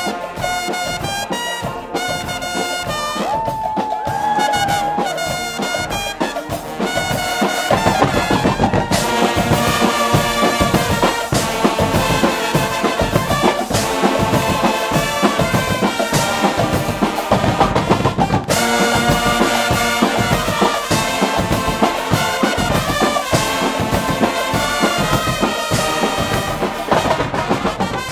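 Guggenmusik band playing: trumpets and trombones over drums. The full band and percussion come in louder about eight seconds in, with a steady drum beat.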